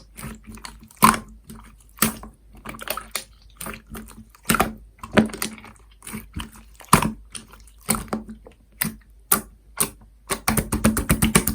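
Hands squeezing and poking slime, making irregular sharp wet clicks and pops. Near the end they speed up into a fast run of clicks.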